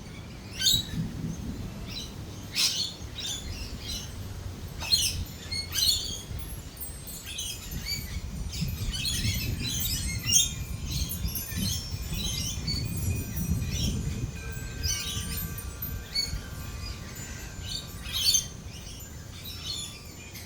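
Lorikeets calling in many short, high chirps and squawks, with a low rumble of rolling thunder building through the middle.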